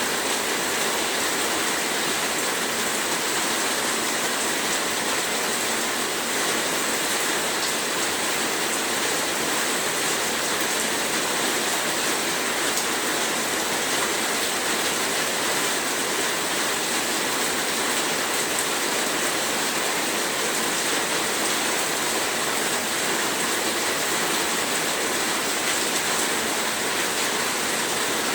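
Heavy rain falling steadily as a dense, even hiss with no individual drops or thunder standing out.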